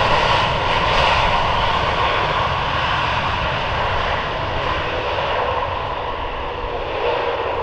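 Jet engine noise from the Airbus A321neo XLR's CFM LEAP-1A turbofans after landing: a steady roar with faint steady tones in it, slowly growing quieter and duller as the airliner moves away.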